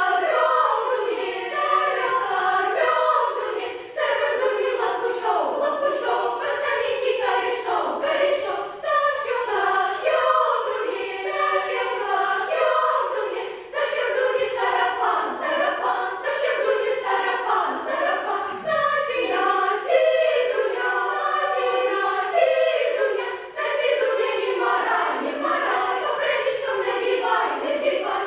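Children's choir singing, in phrases broken by short pauses for breath.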